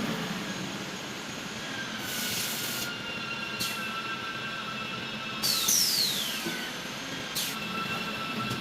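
Straight seam welding machine for water heater inner tanks running with a steady high whine. Several short hisses cut in, and a whine falls in pitch about six seconds in.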